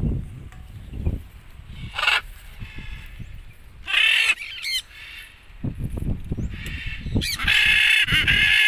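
A bird giving harsh screeching calls: a short one about two seconds in, another around four seconds, and a longer run of calls over the last second and a half.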